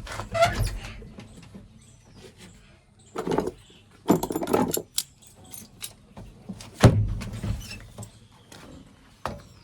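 Backhoe loader engine running low in the background, broken by four short bursts of loud clattering and rattling.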